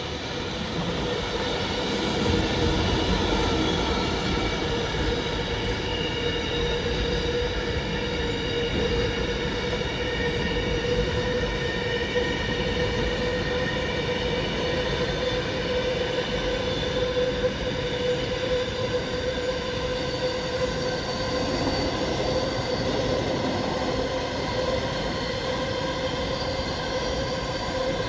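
Train running along the track, a steady rumble with a whine of several held high tones over it.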